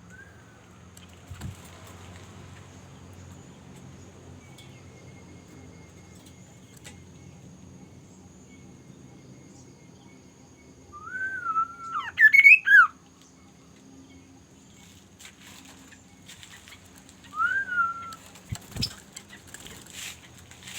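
A bird giving short whistled calls that rise and fall in pitch: a quick cluster about halfway through and a single call again later, over a low steady background hum.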